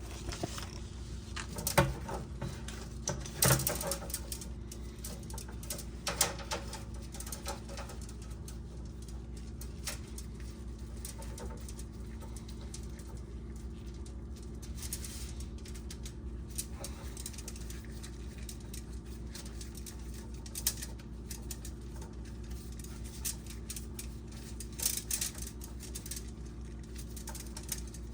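Steady low hum under scattered clicks and rustles of the coiled plastic water line being handled, with louder knocks about two, three and a half and six seconds in.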